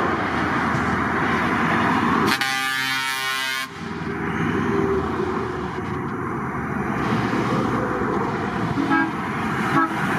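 A truck's air horn sounds one steady blast of about a second and a half, a couple of seconds in. Loud, steady vehicle noise runs under it.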